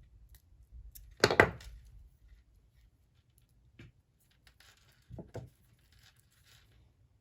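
Hands handling jewellery-making and packing materials on a work table: a quick cluster of knocks and clicks about a second in, a light tap later, then two more knocks over a faint papery rustle.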